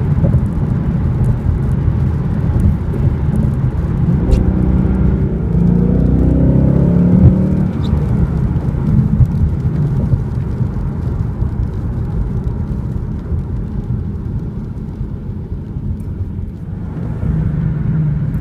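2015 Ford Mustang GT's 5.0-litre V8 running under way: its note rises in pitch as the car accelerates about five seconds in, then settles, drops quieter near the end and picks up again.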